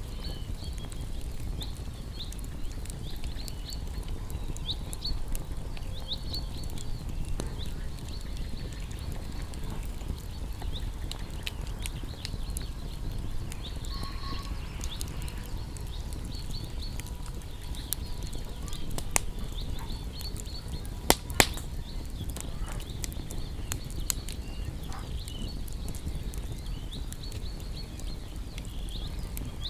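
A wood fire crackling, with scattered pops and a few louder snaps about 21 seconds in, over a low steady rumble. Small birds chirp over it in short, high, repeated notes.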